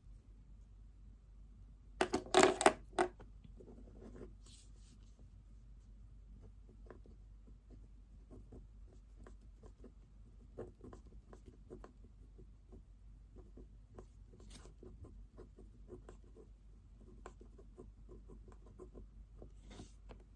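Pen writing on paper: faint, quick scratching strokes. A short cluster of louder knocks and rustles about two seconds in.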